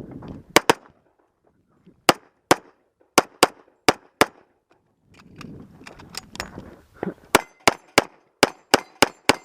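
Pistol shots fired in quick strings: a fast pair, then six shots roughly half a second apart, a pause of about two and a half seconds, then eight more in quick succession.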